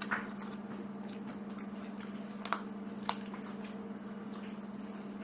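Someone eating: a few sharp mouth clicks and smacks of chewing over a steady low hum.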